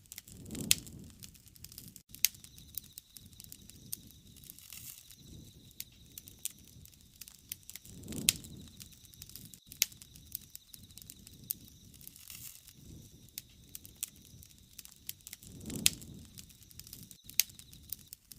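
Wood fire crackling, with frequent sharp snaps and pops. Three louder pops, about seven seconds apart, each come with a brief low rush.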